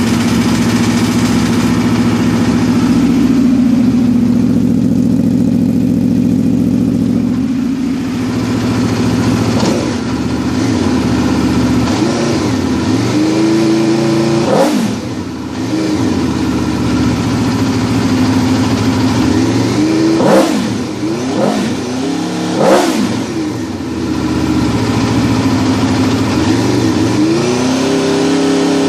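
Aprilia RSV4's V4 engine idling steadily. After about eight seconds it is given a series of sharp throttle blips, each revving up quickly and dropping straight back to idle.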